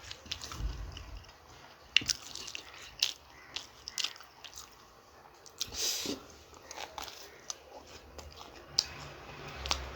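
A person biting and chewing food close to the microphone, with crisp crunches about two, three and four seconds in and a short noisy rush a little past the middle.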